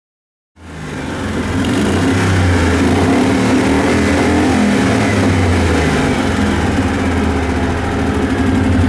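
Car engine running hard at steady revs, coming in abruptly after a moment of dead silence about half a second in.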